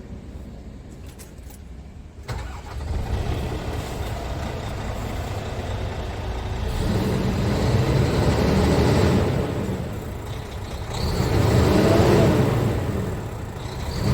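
Scania R400 truck's 13-litre straight-six diesel running: a low idle, stepping up about two seconds in, then revved twice, each rev rising and falling in pitch over a couple of seconds, with another rev starting at the very end.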